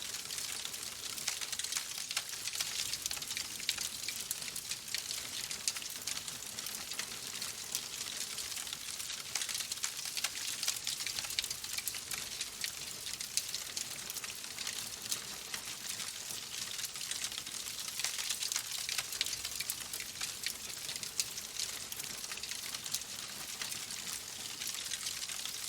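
Wood fire crackling in a fireplace: a steady hiss scattered with many small, quick pops.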